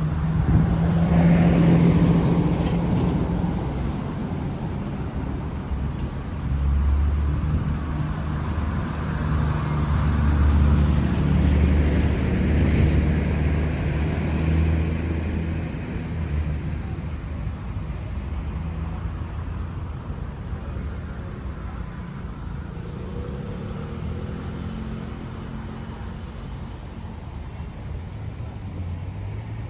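Street traffic: motor vehicles passing close by with engines running, loudest in the first half and then dying down to a lower hum of traffic.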